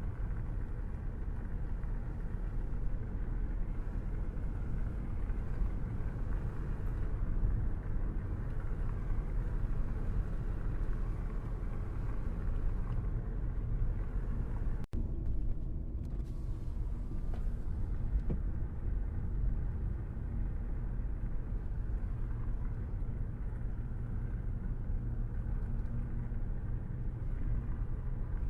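Steady road and engine rumble of a car driving, heard from inside the cabin, with a brief dropout about halfway through.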